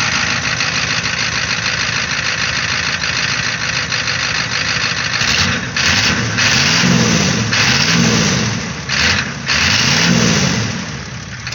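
Ford 6.9 IDI V8 diesel running rough just after being brought back to life with ether, following seven years of sitting. About halfway through its speed rises and falls about three times, then it drops back lower near the end.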